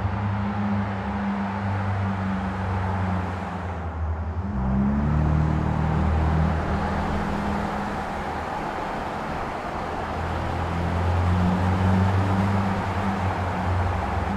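A car engine running steadily, a low hum over a noise wash. The hum's pitch shifts abruptly about four and a half seconds in.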